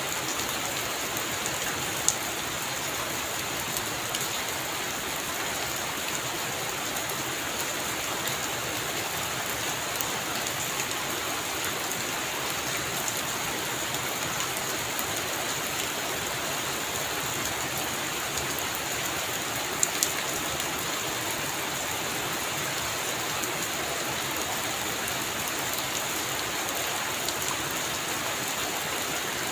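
Heavy rain falling steadily in an even, unbroken hiss, with a few sharper, louder drops now and then.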